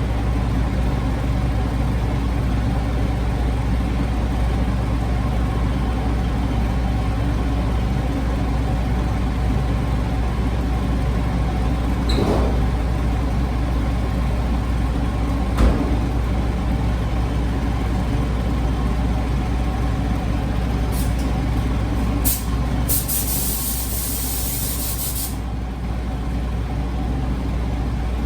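A steady low machine drone runs throughout. Near the end come two short hisses and then one longer hiss of about two seconds, like air blasts from a paint spray gun being triggered.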